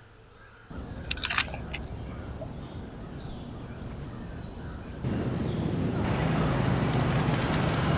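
Outdoor city ambience: a steady rumble of distant traffic that grows louder about five seconds in, with a few short high sounds near the start.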